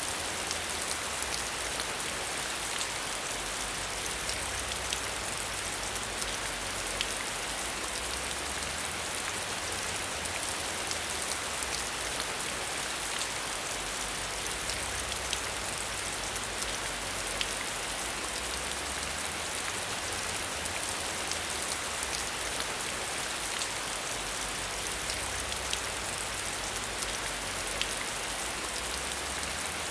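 Steady rain, with many small drops tapping close by over an even hiss and a low rumble underneath.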